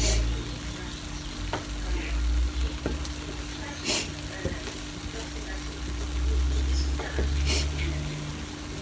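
Food sizzling as it fries, with a couple of brief louder hissing flares and a low rumble underneath.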